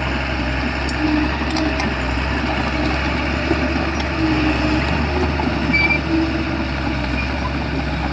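SHANTUI crawler bulldozer's diesel engine running steadily under work, with a few short squeaks and faint clicks from the machine.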